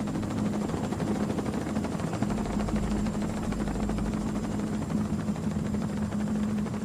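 Helicopter rotor and turbine engine running steadily in flight: a constant low drone with an even hum.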